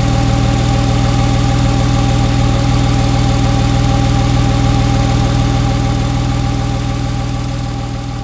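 Porsche 911 Carrera's flat-six engine with sports exhaust idling steadily, its pitch unchanging, fading away near the end.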